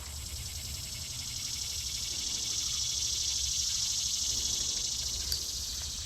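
Outdoor insects buzzing: a high, rapidly pulsing buzz that swells over a few seconds and then eases off, over a steady high whine.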